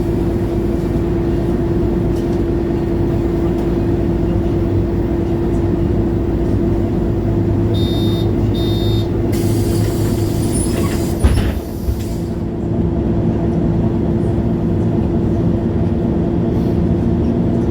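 Interior of a 2011 MAN Lion's City G articulated city bus under way: the drivetrain runs with a steady whine. Two short bursts of electronic beeping come about eight and nine seconds in, then a hiss, and a knock just after eleven seconds, after which the engine note changes.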